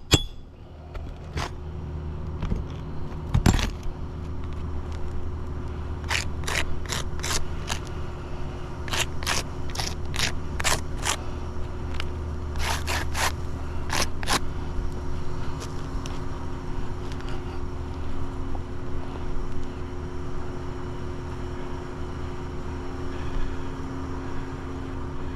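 Hand tools working an asphalt shingle loose to replace it: one heavy knock a few seconds in, then three runs of quick sharp taps with scraping in between, over a steady low hum.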